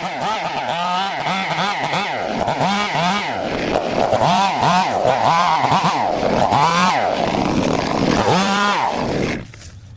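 Small engine revving up and down over and over, its pitch rising and falling in quick swells; it cuts in sharply and stops suddenly near the end.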